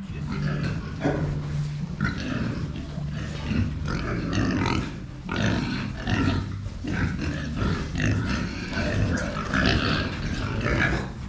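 Pigs grunting and squealing continuously, with a steady low hum underneath.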